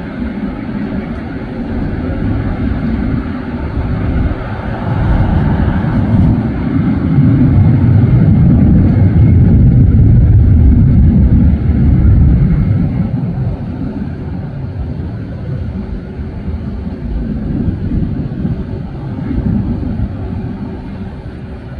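Jet airliner passing close by: a low engine rumble that swells to its loudest about halfway through, then fades away.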